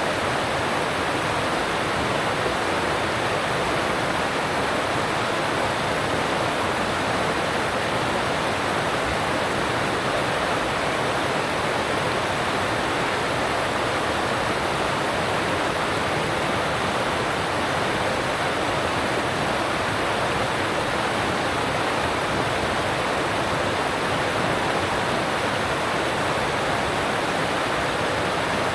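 Alpine stream rushing over rocks: a steady, unbroken water noise.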